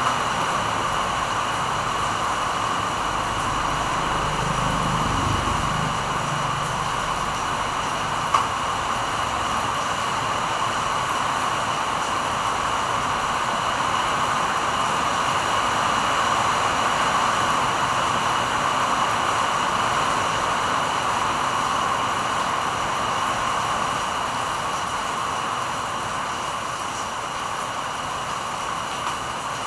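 Steady hiss with a faint high whine, and a single sharp click about eight seconds in.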